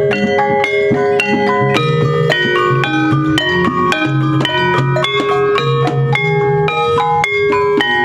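Javanese gamelan music: bronze metallophones and gongs struck in quick, steady strokes, each note ringing on, over lower sustained gong tones.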